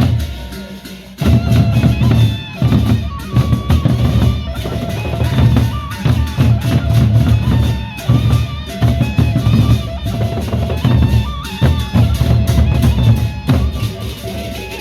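Loud live procession music from a nyongkolan band: heavy, driving drum beats under a repeating melodic line. It comes in at full strength about a second in.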